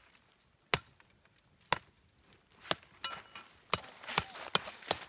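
Knife chopping food on a cutting board: sharp single strikes about once a second, coming quicker near the end.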